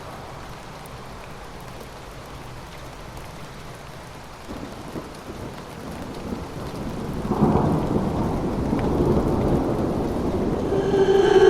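Rain falling with thunder rumbling in: a low rumble builds from about halfway through, swells, and stays heavy. Near the end a drawn-out pitched wail begins over it.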